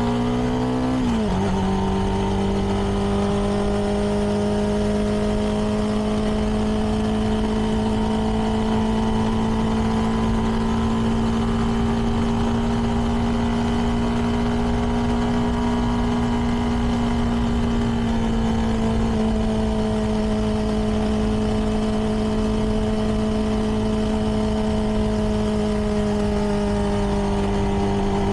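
CFMoto 300NK's single-cylinder engine running through its stock exhaust while cruising. About a second in the pitch drops as it shifts up a gear, then it holds a nearly steady note, with a smaller dip about two-thirds of the way through.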